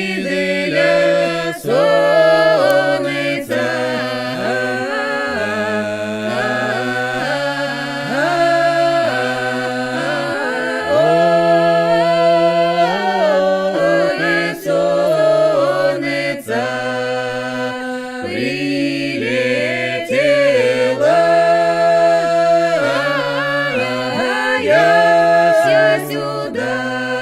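Unaccompanied Russian folk polyphonic singing: several voices in harmony holding long, drawn-out notes, with slides from one pitch to the next.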